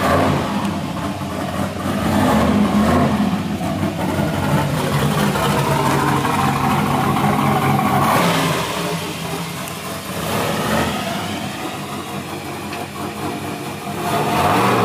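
Turbocharged 5.3-litre V8 of a 1969 Camaro running and revving as the car is driven, its engine note rising and falling several times, loudest a couple of seconds in and again about halfway through.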